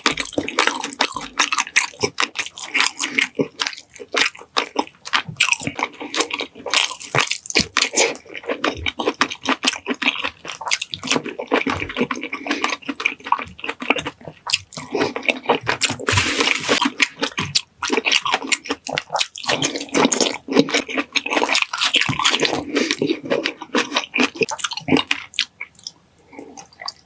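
Close-miked eating sounds: wet chewing, smacking and squishing of saucy pineapple chicken, with many small irregular clicks.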